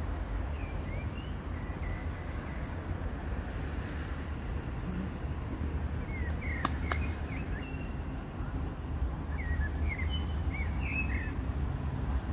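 Small birds chirping in short scattered calls, in a few clusters, over a steady low rumble. Two sharp clicks come close together about seven seconds in.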